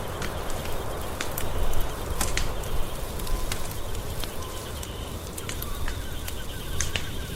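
Wood fire crackling, with sharp pops scattered irregularly over a low steady rumble and the loudest pops about two and three seconds in. A faint rapid high chirping sits underneath, clearer in the second half.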